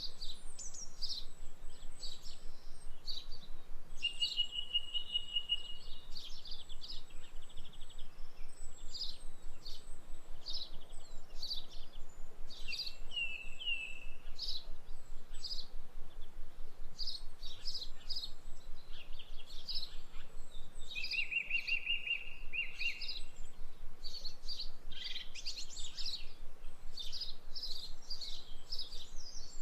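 Birds chirping and singing, many short calls overlapping throughout, with a rapid trill about four seconds in and another about twenty-one seconds in.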